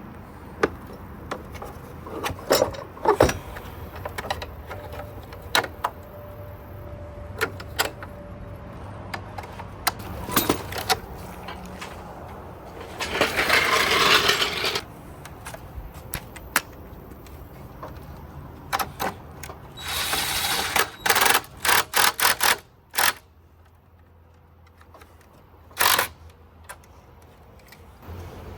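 Metal tools and parts clinking and knocking during car repair work, in scattered sharp strikes. A noisy burst of about two seconds comes near the middle, and a quick run of loud short bursts about two-thirds through.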